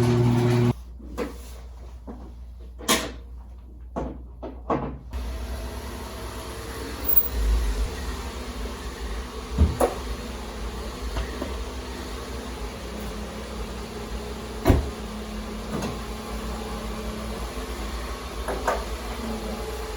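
Music cuts off suddenly in the first second. Then comes a run of scattered knocks and clicks from handling a car whose dead battery is being readied for a boost, over a low steady background, with two sharper knocks about ten and fifteen seconds in.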